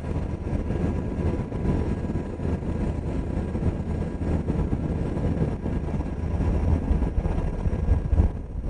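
UH-60 Black Hawk helicopter's rotors and turbine engines running steadily, heard from inside the cabin as a constant low rumble and whir.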